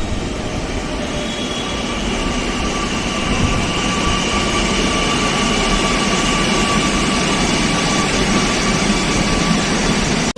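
A Kochi Metro electric train running, heard from inside the car: a steady rumble of wheels on rail with a high, even whine from the electric drive. It grows a little louder about three and a half seconds in.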